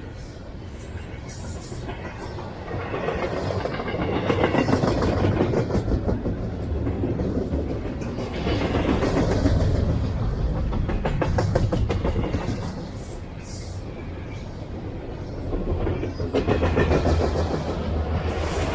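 CSX freight train cars rolling past at speed, a steady low rumble with the wheels clacking rapidly over the rail joints. The sound swells and eases as the cars go by.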